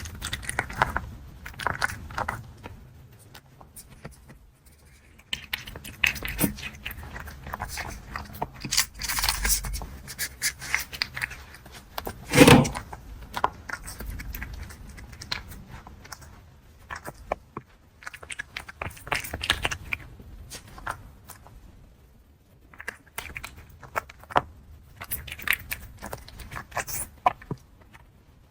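Cat eating dry kibble, with irregular crunching and kibble rattling and scraping in the bowl. One louder knock comes about twelve seconds in.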